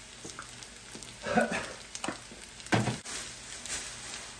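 Sausage and rice sizzling in a frying pan as a spatula stirs it. Two louder spatula strokes against the pan come about a second and a half in and again near three seconds.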